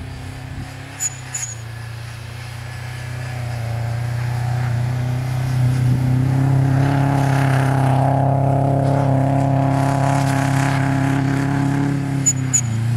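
Subaru Impreza WRX's turbocharged flat-four engine held at steady high revs as the car spins its wheels and slides through deep snow. It grows louder from a couple of seconds in and drops back near the end. A couple of short sharp chirps sound about a second in and again near the end.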